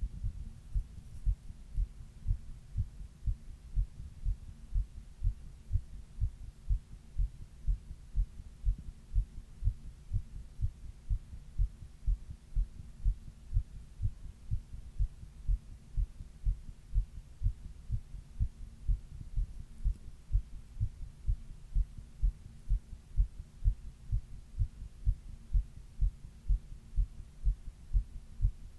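A person's own heartbeat: steady, regular low thumps at an even rhythm, over a faint steady hum. It was recorded while she had a fever of 102 degrees.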